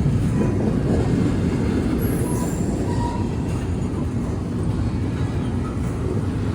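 A train rolling past, a steady sound with most of its weight low.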